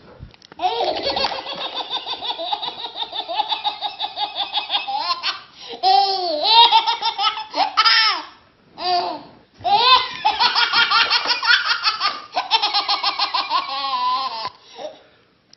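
A small child laughing hard: long runs of rapid, high-pitched belly laughs, broken by a few short pauses midway.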